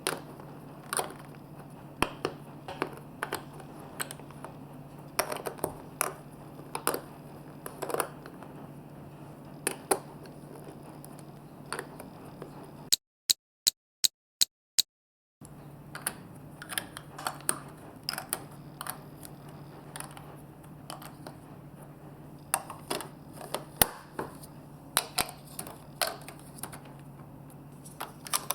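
Marbles rolling along a plastic building-block and magnet marble-run course, with sharp, irregular clicks and clacks as they hit the pieces over a steady low hum. About halfway through, the background drops out for a couple of seconds, leaving six evenly spaced clicks.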